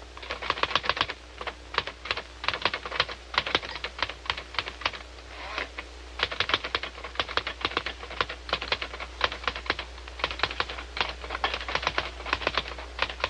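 Manual typewriter being typed on in quick bursts of keystrokes, with short pauses between the runs.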